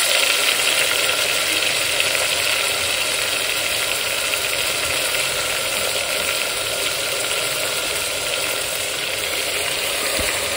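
Marinated chicken sizzling steadily as it fries in hot ghee and oil in the base of a pressure cooker.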